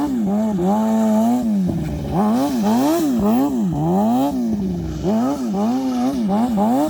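Motorcycle engine revving up and down repeatedly in quick throttle blips, with steadier stretches about a second in and again near the end.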